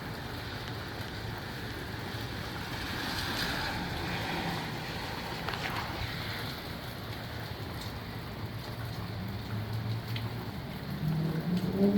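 Strong gusty wind with rain, a steady rushing noise that swells in a gust a few seconds in. A low wavering hum comes in near the end.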